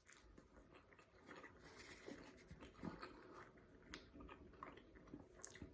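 Near silence, with faint, scattered clicks and soft mouth sounds of someone chewing food.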